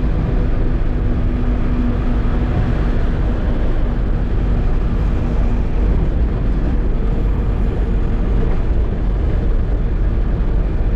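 Eicher diesel truck running with a steady, loud low rumble. A steady hum sits over it until about six seconds in, and a higher hum comes in about a second later.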